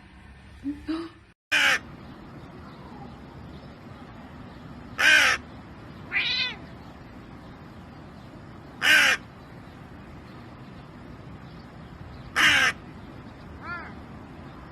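Crow cawing: four loud, harsh caws spaced three to four seconds apart, with quieter, more tonal calls in between.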